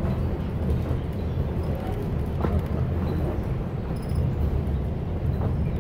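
A passenger coach rolling along the track, heard from inside the train as a steady low rumble, with a faint clack from the wheels about every three seconds.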